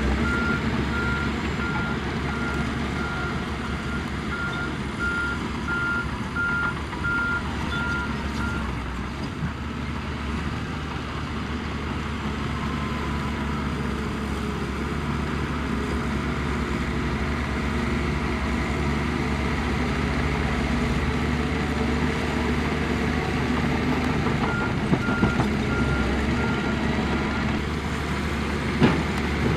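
Heavy earthmoving machinery's diesel engines running steadily under work, with a reversing alarm beeping in a regular pulse during the first third and again briefly near the end. A sharp click comes just before the end.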